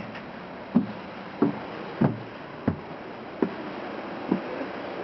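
Passenger train running, heard from inside the car: a steady rumble with regular knocks about every two-thirds of a second as the wheels pass over rail joints.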